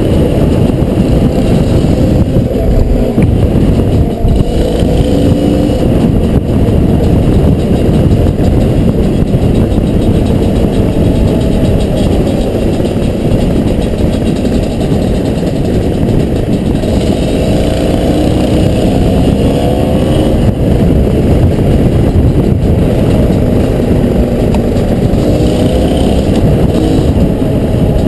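Honda CRM250 two-stroke single-cylinder dirt bike engine under way, its pitch climbing as it revs through the gears twice, about two-thirds of the way in and again near the end. A dense low rumble runs under it throughout.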